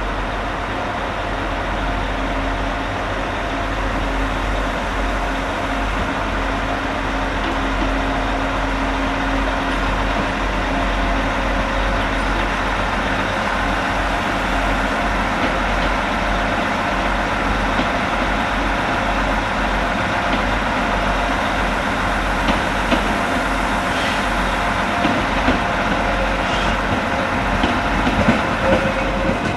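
Diesel engine idling steadily, with a few short clicks near the end.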